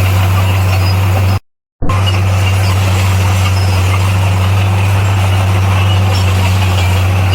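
Diesel engine of heavy earthmoving machinery running at a steady, even drone, the sound cutting out completely for a moment about a second and a half in.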